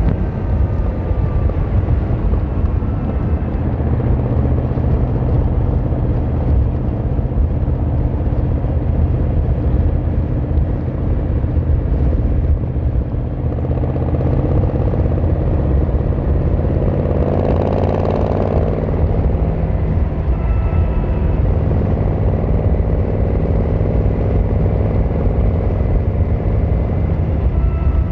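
Yamaha XVZ1300 Royal Star's V4 engine and exhaust running steadily under way, a loud, low drone. About two thirds of the way through, a swell of sound rises in pitch and then fades.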